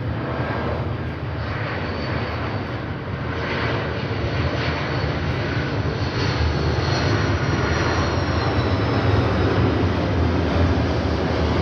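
Jet engines of an Airbus A330-300 running: a steady rumble and roar that grows gradually louder, with a faint high whine slowly falling in pitch.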